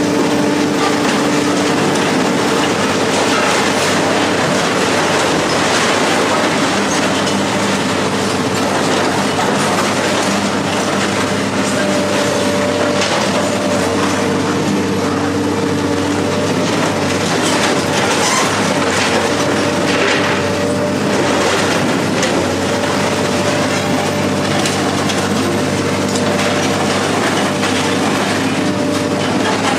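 Heavy machine running with a steady engine drone, with continuous metal scraping and clanking as scrap metal is worked.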